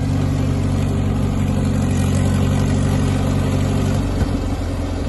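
Caterpillar crawler dozer's diesel engine running steadily, its note changing slightly about four seconds in.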